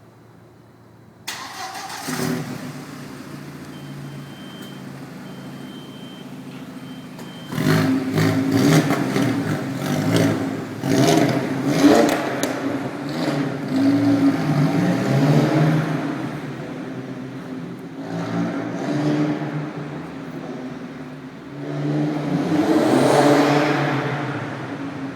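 Audi A4 B5's turbocharged 1.8T four-cylinder through a straight-back exhaust with no resonator. The engine sound comes in suddenly about a second in and runs steadily at idle. From about seven seconds it is revved and accelerated in repeated loud surges, rising again near the end.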